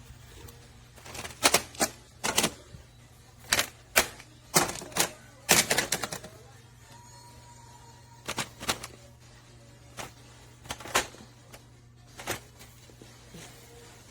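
Sharp, irregular clicks and clacks, some in quick clusters, as the metal parts of a 3-tier rolling utility cart are handled and fitted together during assembly.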